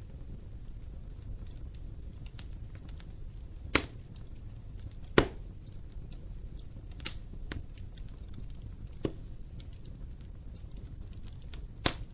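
Wood fire burning in a fireplace: a steady low rumble of flames with scattered small crackles and several sharp pops, the loudest about four and five seconds in and just before the end.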